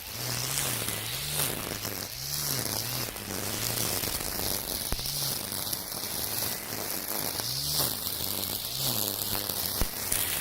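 Battery-powered brush cutter with a nylon trimmer-line head starting up and cutting dense weeds: an electric motor hum that rises and falls as the line bogs down and frees itself, over the hissing, crackling whip of the line through the stems, with sharp ticks where it strikes stiffer stems or stones.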